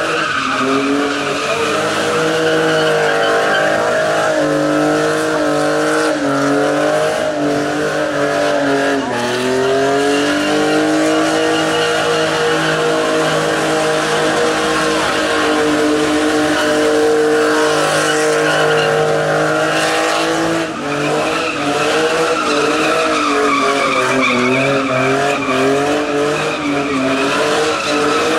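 Nissan Cefiro's RB25DE 2.5-litre straight-six held at high revs, its pitch rising and falling, while the spinning tyres squeal in a burnout. The revs drop briefly about two-thirds of the way through, then climb again.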